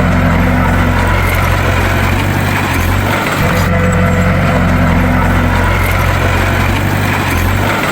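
Bulldozer's diesel engine running steadily under load, a deep even drone with a slight dip about three seconds in.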